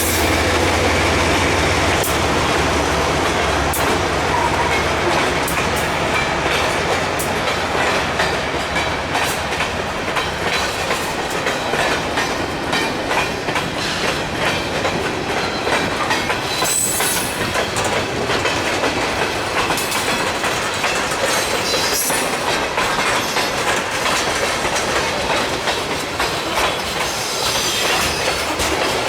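Freight cars rolling past, their wheels clicking steadily over the rail joints, with a few brief wheel squeals. A low drone fades out about two seconds in.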